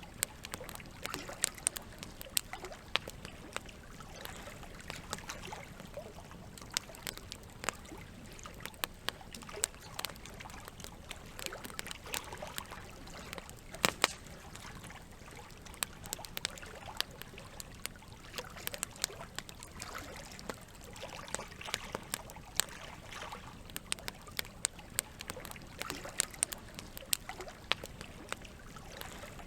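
Campfire wood crackling, with irregular sharp pops over a steady trickle of flowing water.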